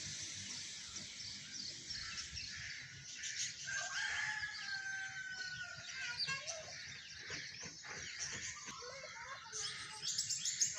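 Birds chirping and calling, with many short high chirps and one long, slightly falling call about four seconds in.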